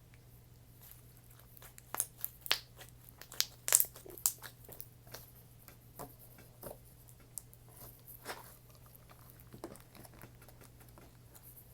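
Slime with foam beads being squished and pressed by hand, giving irregular crunchy pops and crackles, with a cluster of louder clicks between about two and four seconds in.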